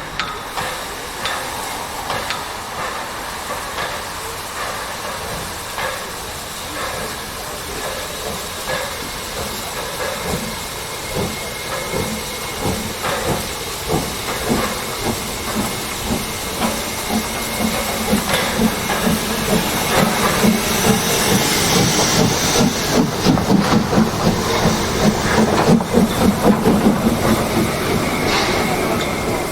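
Narrow-gauge steam train drawing closer, with hissing steam and rhythmic beats that grow louder through the second half.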